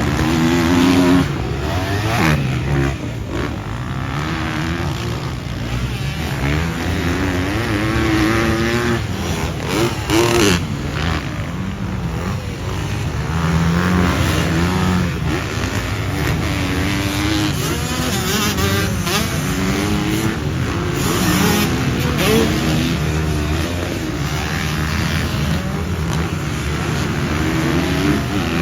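Motocross bike engines revving, their pitch rising and falling over and over as they are throttled up and shifted.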